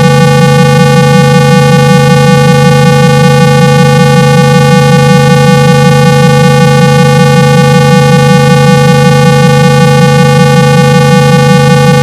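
A loud, steady 165 Hz electronic tone, buzzy with many overtones like a square wave. It is a speaker-cleaning tone, played so the phone speaker's cone vibrates and pushes water out.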